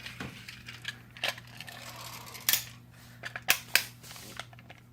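Plastic LEGO parts of a hand-built steam engine model clicking and clattering irregularly as it is worked. Several sharp clacks stand out in the second half.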